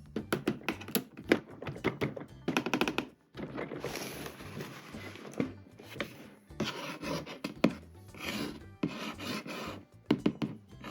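Hands unboxing and handling plastic toys and their packaging: rubbing and scraping with a string of light clicks and knocks, and a longer rustle about four seconds in.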